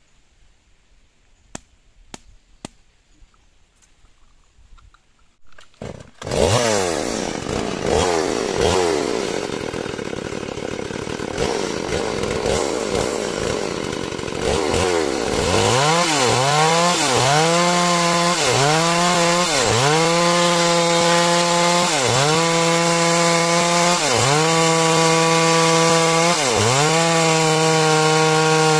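A few clicks, then a chainsaw starts about six seconds in and revs unevenly. It then runs at high revs with a short dip in pitch about every second and a half, as it works through timber ripping out a beam.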